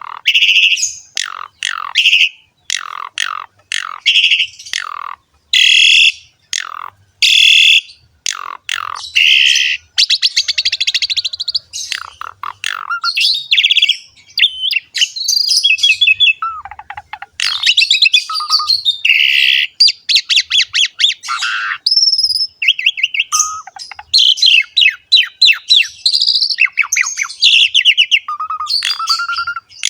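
Javan pied starling (jalak suren) singing hard and without let-up: a dense, varied run of whistles, harsh rasping notes and rapid clicking trills, with only brief pauses between phrases.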